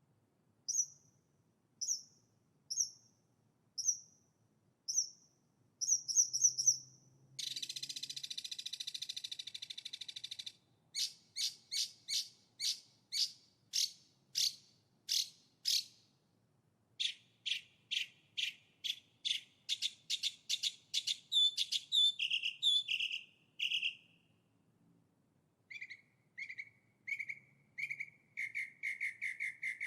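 Songbird song in a series of varied phrases: first separate high chirps about once a second, then a buzzy trill lasting about three seconds, then runs of fast repeated notes and falling notes, ending in a lower, rapid trill.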